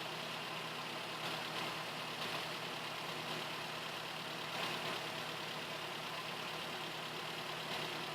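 Suzuki Vitara G16A 1.6-litre four-cylinder engine idling steadily.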